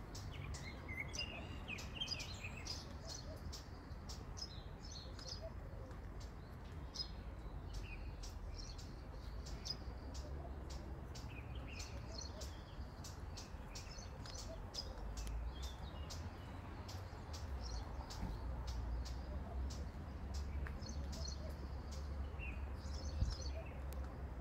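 Small birds chirping, with many short, high chirps throughout, over a steady low rumble.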